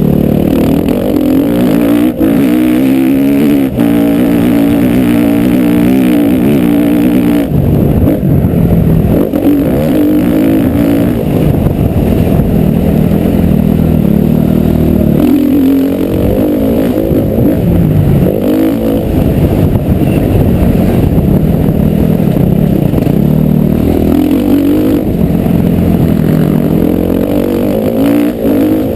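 Motocross bike engine heard on board, revving up and dropping back again and again as the rider accelerates, shifts and slows around the track. A few sharp knocks come through in the first several seconds.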